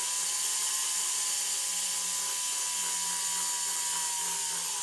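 Jeweller's rotary tool spinning at a steady speed with a high whine and hiss, its abrasive or polishing attachment smoothing out fine lines on a white gold necklace link.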